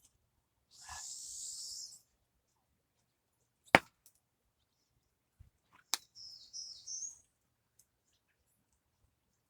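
Wet feathers being torn by hand from a scalded chicken carcass, in short hissing rips about a second in and again past the middle. Two sharp clicks in between, the first, about four seconds in, the loudest sound.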